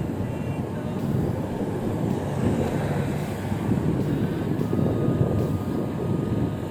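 Wind rushing over the microphone while riding an e-bike: a dense, low, unbroken noise that swells and eases.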